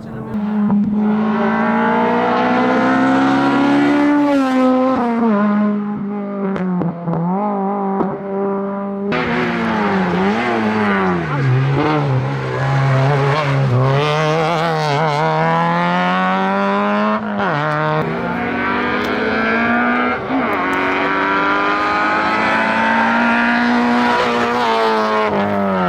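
Racing car engine at full throttle on a hillclimb, the revs climbing through each gear, dropping sharply on upshifts and lifts, and rising again out of corners.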